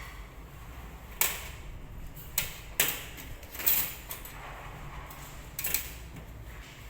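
Metal surgical instruments clicking and clacking as they are handled during a cat castration: about six sharp clicks spread irregularly over several seconds, with a steady low hum underneath.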